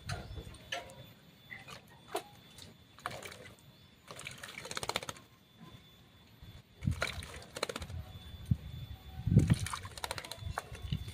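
Javan mynas bathing, several bursts of splashing water and fluttering wings.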